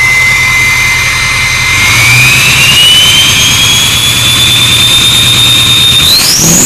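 Turbocharger whistle from a Ford F-250's 6.0 Power Stroke V8 diesel, a steady high whine over the engine's low rumble. About two seconds in the whistle rises in pitch as the engine is revved, holds, then climbs sharply near the end as the revs go up again.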